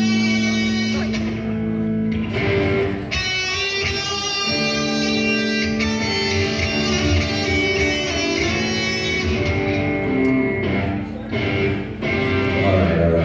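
Guitar strumming sustained chords that change every second or two.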